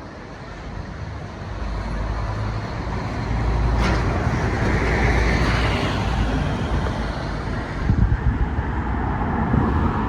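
Scania N230UD double-decker bus running, heard from onboard: engine rumble and road noise, growing louder about two seconds in. A single sharp click comes just before the middle.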